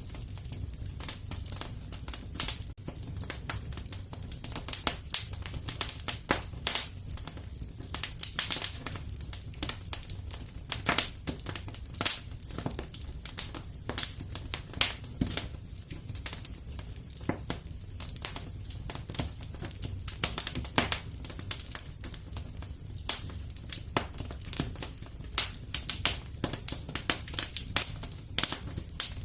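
Wood fire in a fireplace crackling: frequent irregular sharp pops and snaps over a steady low rumble of the burning.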